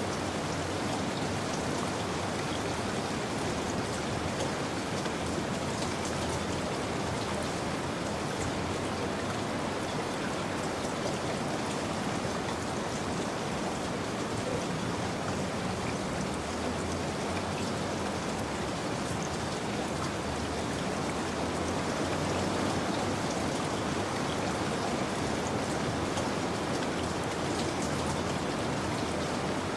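Steady rain falling, an even hiss of drops on surfaces with no pauses or changes.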